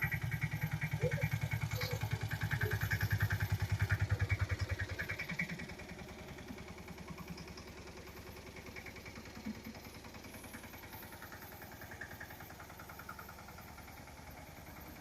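Engine running with a rapid, even pulse. It is loud for about the first five seconds, then drops to a much lower level and keeps running.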